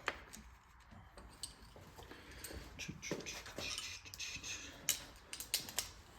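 Light, irregular metal clinks and taps of a hand tool being fitted to a 7/16 fastener on a small engine, with a busier run of small clicks in the middle.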